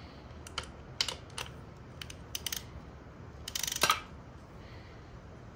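Socket ratchet clicking as the oil drain bolt on a dirt bike's engine is tightened: scattered single clicks, then a quick run of louder rapid clicks a little before four seconds in.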